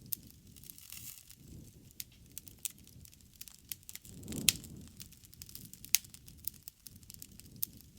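Wood bonfire crackling, with irregular sharp snaps and pops over the low rush of the flames. About halfway through, the fire swells louder and gives one loud pop.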